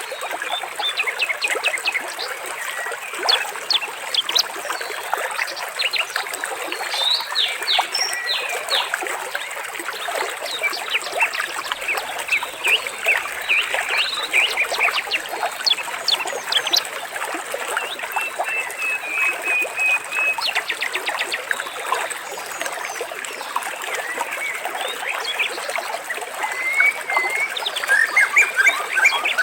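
Water trickling steadily while several birds chirp and call over it, with short quick notes coming again and again.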